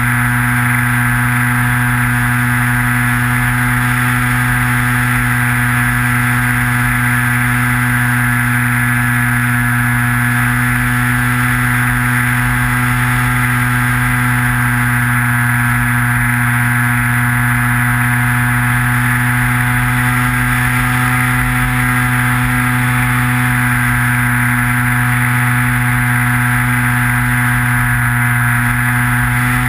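Electric motor and propeller of a Skywalker FPV model plane, picked up by the onboard camera, running at a steady, unchanging pitch as it cruises at constant throttle. A low, uneven rumble of wind on the airframe lies underneath.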